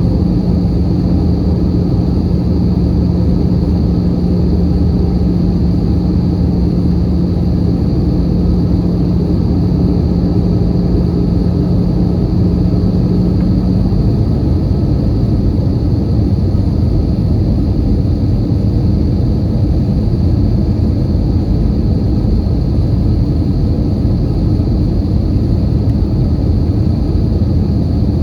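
Airbus A320 cabin noise in flight: the steady sound of the engines and airflow heard from a passenger seat. A low steady hum runs under it and stops about halfway through, and a faint high tone runs throughout.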